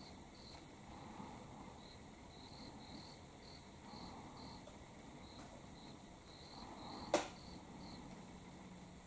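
Autumn crickets chirping in short, high, repeated chirps, about two a second. A single sharp click sounds about seven seconds in.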